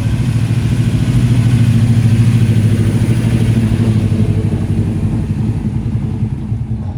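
Classic car engine passing at low speed with a deep, lumpy exhaust note, growing louder to a peak about two seconds in and then fading as it moves away.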